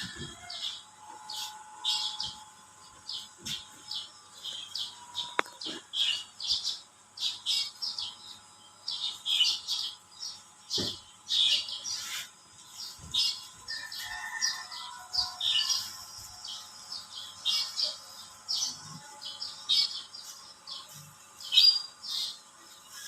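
Birds chirping: short, high chirps following one another a few times a second.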